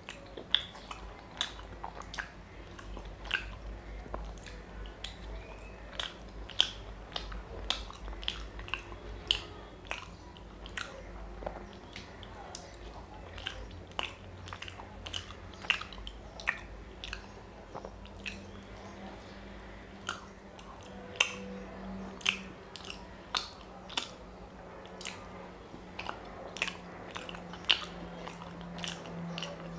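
Close-up chewing of a soft, syrup-soaked Bengali chhena sweet: wet mouth clicks and lip smacks, a few a second at an irregular pace.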